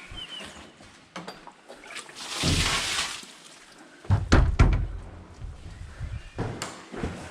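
Leak water poured out of a bucket for about a second, then a cluster of knocks and thumps about four seconds in, the loudest part, as the container is handled.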